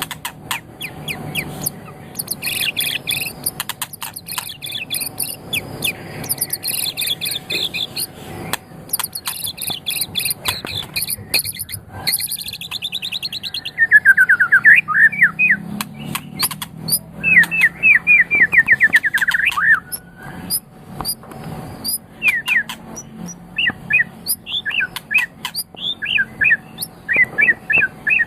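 White-rumped shama singing a long, varied song: rapid high trills and fast repeated notes, then a run of quick sweeping whistles about halfway through, breaking into short separate chirps near the end, with sharp clicking notes mixed in.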